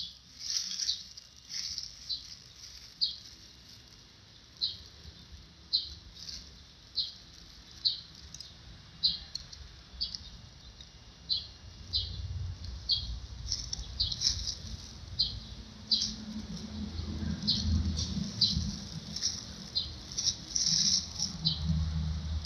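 A bird calling over and over, a short high chirp about once a second. A low rumble builds up in the second half.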